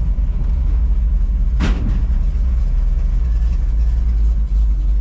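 Truck loaded with sawdust running with a steady low engine and road rumble. A brief swish is heard about a second and a half in.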